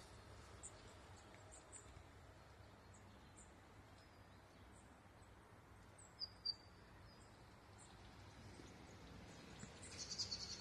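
Faint, short high-pitched chirps of small birds scattered over a quiet background. There are two louder falling notes about six seconds in and a quick cluster of chirps near the end.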